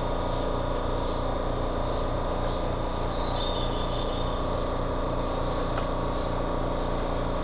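Aonami Line electric train running steadily between stations, heard from inside the front car: a constant rolling rumble with a steady motor hum.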